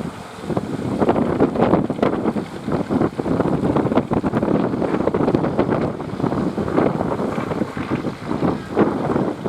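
Wind buffeting the microphone in irregular gusts over the rush of sea surf.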